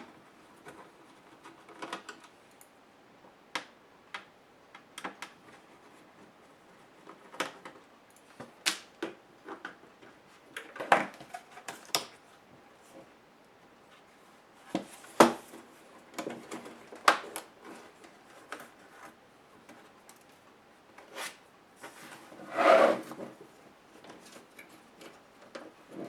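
Irregular clicks, taps and knocks of a Compaq HP 6720S laptop's plastic casing, parts and small tools being handled during disassembly, with one longer, louder rasping sound lasting about a second near the end.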